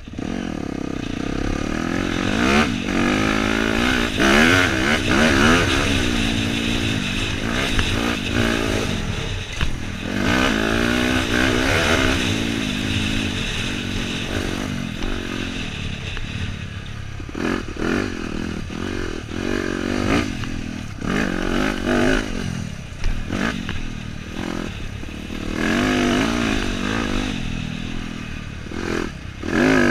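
Dirt bike engine revving up and down as it is ridden along a trail, its pitch rising and falling again and again, with occasional knocks and clatter.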